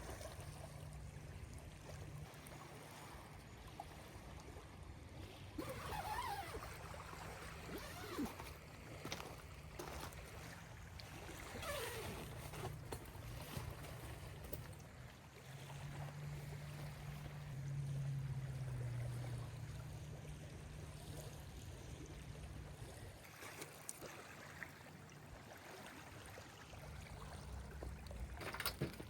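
Quiet lakeside ambience: a low steady drone that rises and falls in pitch around the middle, with light water sounds, a few faint gliding calls and scattered small clicks.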